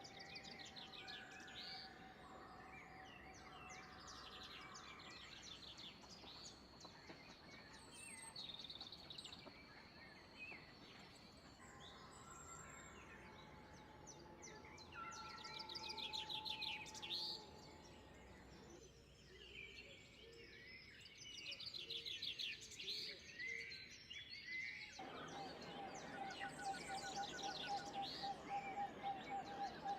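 Several wild birds singing and calling at once: overlapping chirps and rapid trills, with a few long held notes, over a faint steady background hiss.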